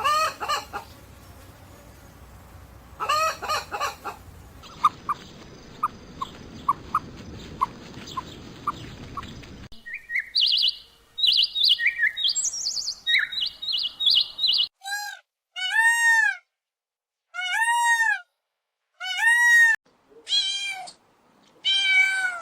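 Birds calling, one kind after another. First come short pips and high scattered chirps. From about two-thirds of the way in, there is a series of about six arched calls that rise and fall, each a little over a second apart.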